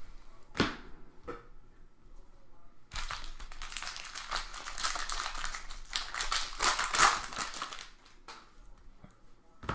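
Trading card pack wrapper being torn open and crinkled by hand: a couple of light clicks, then several seconds of dense crackling and tearing, then quieter handling ticks near the end.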